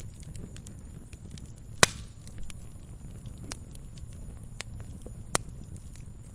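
Wood fire burning with a low rumble and scattered crackles, and two sharp pops, the louder about two seconds in and another near the end.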